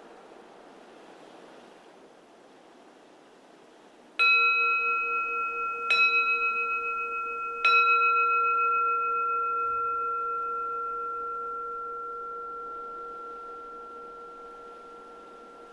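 Keisu, a Japanese Zen temple bowl bell, struck three times about a second and a half apart. Each strike rings on, and the last ring fades slowly over several seconds. A soft wind hiss lies underneath.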